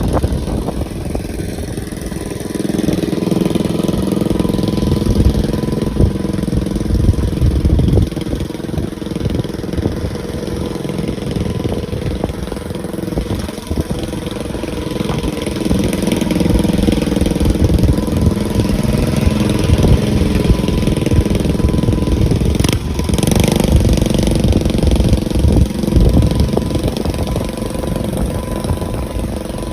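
Dirt bike engine running throughout, swelling and easing several times as the throttle changes, with a sharp click about 23 seconds in.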